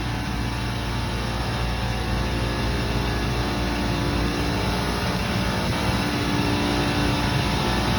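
Commercial chiller running with a steady machine hum, its compressor forced on by holding the contactor in by hand on a circuit that keeps cutting off on low pressure. The hum's tone grows a little stronger about five seconds in.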